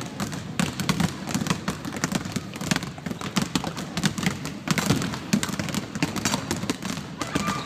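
Many irregular taps and soft thuds, balloons being batted up to keep them off the floor.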